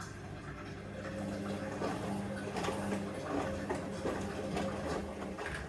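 Hoover Vision Dynamic washing machine running as its final spin gets under way: a steady low hum, with a motor tone coming in about a second in and irregular sloshing and crackling of the wet load in the drum.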